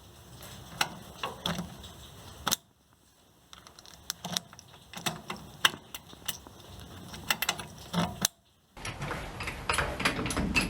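Keys jangling and small metallic clicks from a car ignition barrel being fitted and worked with its key, in short takes broken by two brief silences, with the clicking heavier near the end.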